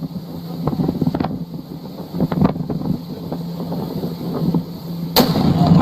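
Wind buffeting the microphone over a steady low hum, then a sudden loud boom about five seconds in: the shock wave of a volcanic eruption arriving.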